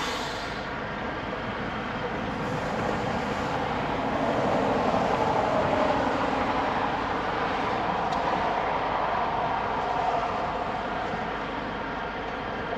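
Steady vehicle running noise, a continuous rumble and hiss that swells a little in the middle.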